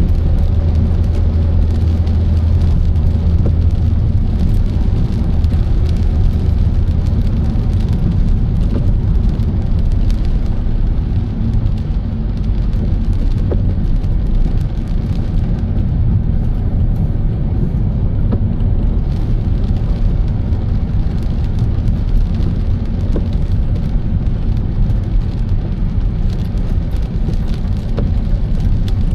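Car driving, a steady low drone of road and engine noise, with a stronger low hum in the first few seconds.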